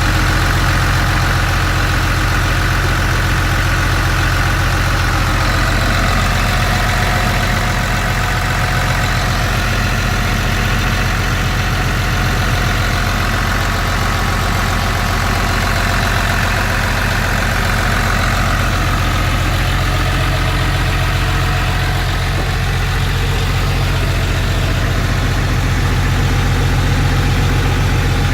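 Engine of a 2001 Vogel 1603 idling steadily, with an even low hum throughout.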